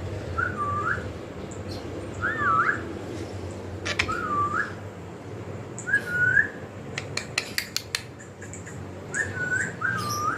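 Indian ringneck parrot whistling: six short notes, each a quick dip and rise in pitch, spaced a second or two apart, with a few sharp clicks in the middle.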